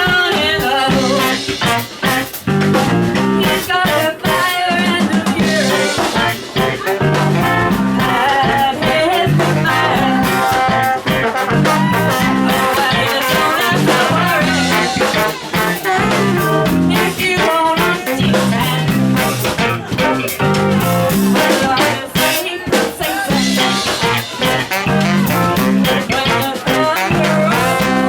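Funk band playing live: a repeating bass guitar line under drums and guitar, in a steady groove.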